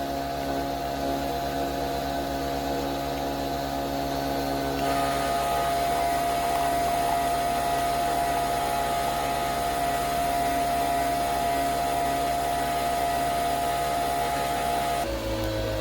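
Nespresso Vertuo Next capsule coffee machine brewing: a steady motor-and-pump whir with a fast low buzz underneath. Near the end the sound shifts and a tone slides downward as the spin winds down.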